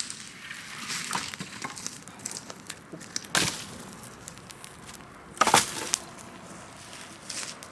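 Open wood bonfire crackling, with scattered small pops and two sharp, loud cracks about three and a half and five and a half seconds in, the second the loudest.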